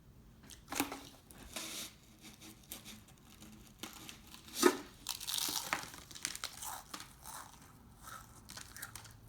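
Crinkling and rustling of a Pringles can's packaging being handled, with scattered clicks, a sharp click about four and a half seconds in, and a tearing crinkle just after it.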